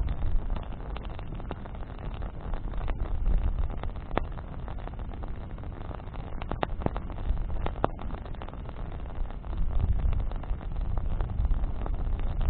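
Bonfire of burning branches crackling, with sharp pops scattered irregularly over a low, uneven rumble that swells and eases.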